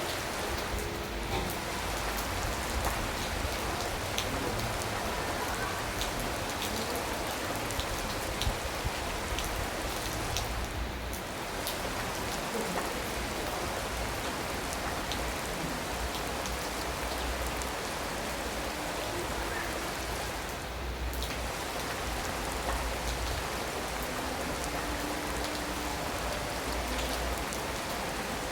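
Steady rain falling, a constant hiss with many separate drops tapping close by.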